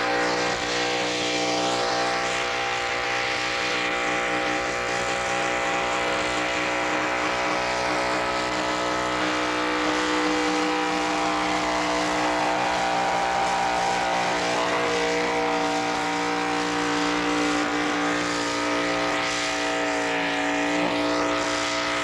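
Limited modified pulling tractor's engine held at high revs under load during a pull down the track. The note stays nearly steady, sagging slightly a few times near the end.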